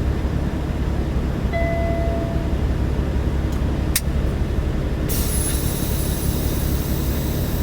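Semi truck's diesel engine running steadily during a second try at unhooking from the trailer. A short beep sounds about a second and a half in, a sharp click near four seconds, and a steady hiss starts about five seconds in.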